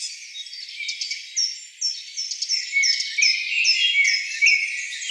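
Rainforest ambience of high, thin chirping calls, with a run of short falling chirps repeating about three times a second over other overlapping chirps; there is no low sound at all.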